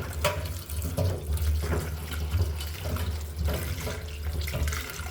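Kitchen tap running into a sink as freshly cut brinjal and ridge gourd pieces are rinsed under it. The water rushes steadily, with small knocks and splashes now and then.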